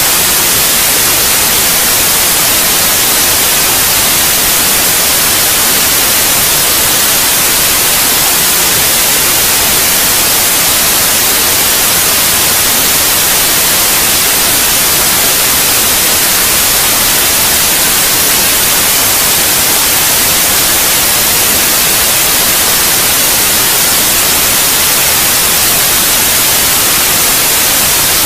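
Steady white noise: an even, unbroken hiss that is loud and brightest in the high treble, used as a sleep sound for babies.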